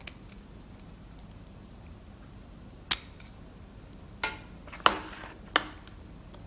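Sharp metallic clicks and snaps of small tools working at the circlip on a lock cylinder, about six at uneven intervals, the loudest about three seconds in, as the tool slips on the stubborn clip.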